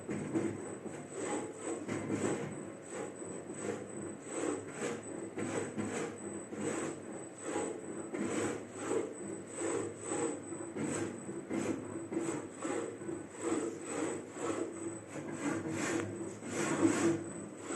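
CNC router cutting, with a rasping cut that surges and fades a few times a second over a steady high-pitched spindle whine.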